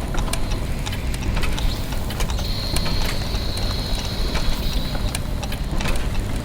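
Clockwork gears and ratchets ticking and clicking irregularly over a steady low machinery hum, with a thin high whine joining from about two and a half to five seconds in.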